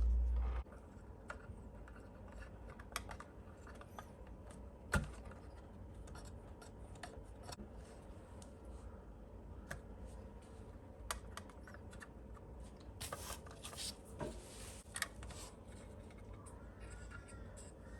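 Small clicks, taps and scraping from handling the plastic and metal parts of an RC hydraulic excavator kit during assembly, with one sharp click about five seconds in and a short run of scraping and rustling past the middle.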